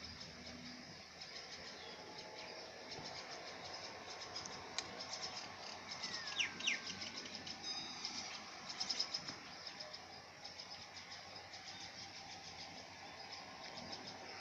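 Faint birds chirping on and off, with quick high trills and one falling whistled call about six seconds in.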